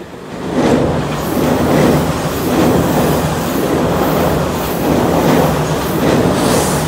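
Tobu 100 series Spacia electric express train passing close by, its steel wheels rumbling on the rails with a repeating clatter over the rail joints. It gets loud suddenly about half a second in as the cars draw level.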